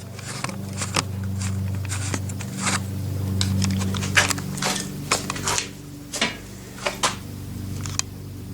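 Scattered clicks, knocks and rustles of handling, over a steady low hum.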